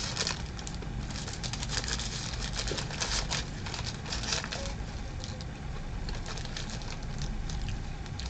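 Sandwich wrapper crinkling and rustling in irregular crackles as a half-eaten sub is wrapped back up by hand, over a steady low hum.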